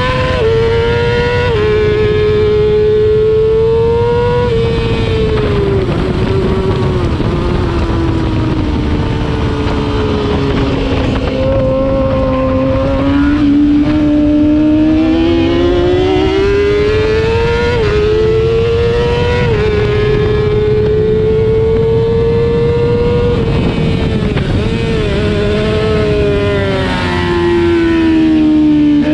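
Racing motorcycle engine at race pace, heard from an onboard camera. Its pitch climbs and then drops abruptly at upshifts, about a second and a half in, again near four and a half seconds and near nineteen and a half seconds. Over longer stretches it falls and rises again as the bike slows for corners and accelerates out.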